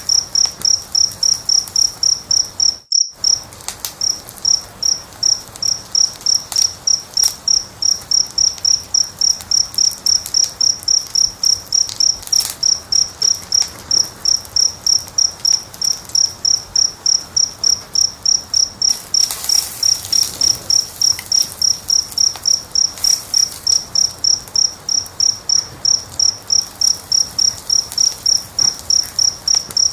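A cricket chirping steadily, about three chirps a second, over the scattered pops and crackles of a wood fire. All sound drops out briefly about three seconds in.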